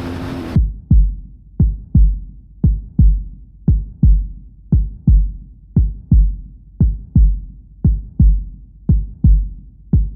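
Low double thumps in a slow heartbeat rhythm, one pair about every second, as a music beat or sound effect. Before them, a steady sound cuts off abruptly about half a second in.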